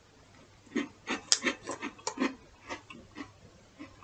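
Chewing a small crunchy biscuit with a chocolate-hazelnut filling: a run of irregular crisp crunches starting about a second in.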